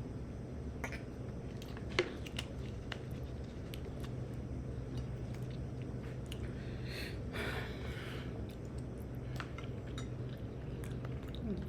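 Close-miked chewing and mouth sounds of someone eating, with scattered small wet clicks and a sharper click about two seconds in.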